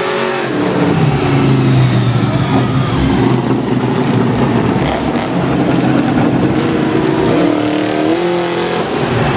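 Motor vehicle engines revving up and down as vehicles drive around a large arena floor, with a steep rise in engine pitch about seven seconds in.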